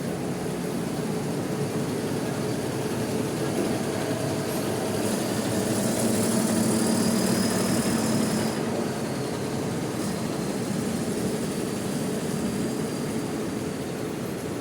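Bus diesel engine running steadily, growing louder for a few seconds around the middle, when a faint high whine joins it, then easing back.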